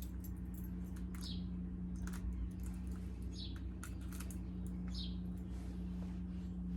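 A bird chirping over and over, one short falling chirp about every one and a half seconds, over a steady low hum and a few light clicks.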